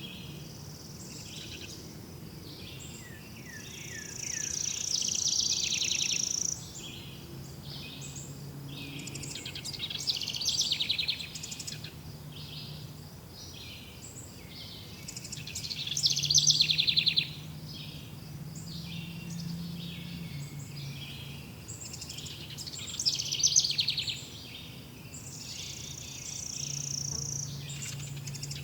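Wild birds singing in recurring bouts of chirps and trills, with a few louder phrases spaced through, over a steady outdoor hiss and a low hum that comes and goes.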